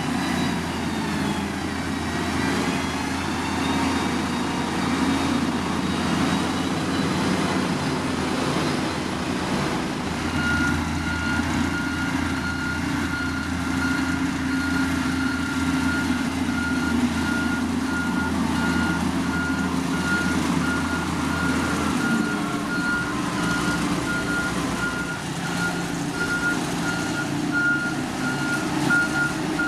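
Heavy diesel construction machine running, its engine note dropping in the first couple of seconds. About ten seconds in, a reversing alarm starts beeping at one pitch and keeps on regularly over the engine.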